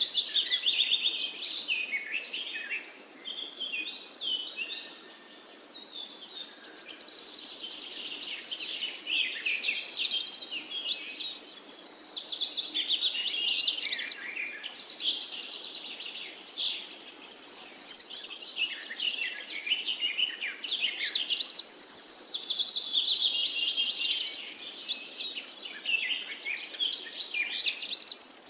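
Birdsong: several small birds chirping and twittering continuously in quick, overlapping high calls.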